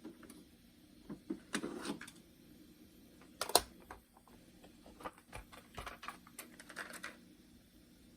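Scattered mechanical clicks and clunks from the cassette deck keys and the body of a JC Penney boombox being handled, with the sharpest knock about three and a half seconds in and a quick run of clicks near the end.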